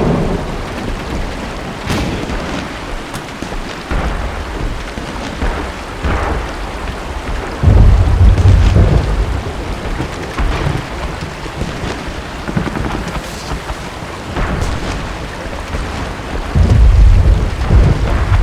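Steady rain with two deep rolls of thunder, one about eight seconds in and one near the end. Faint scattered cracks of distant gunfire sound between them.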